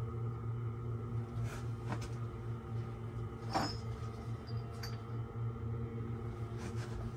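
A few light clicks and knocks of threaded black-iron pipe fittings and tools being handled, the loudest about halfway through, over a steady low electrical hum.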